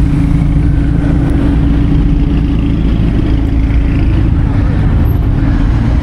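Car engine running steadily: a deep, constant rumble with a steady hum over it, no revving.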